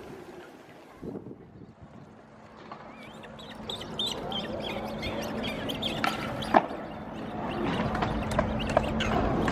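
Birds calling in a run of short, high chirps about midway. A sharp click follows a little later, and a rushing noise builds near the end.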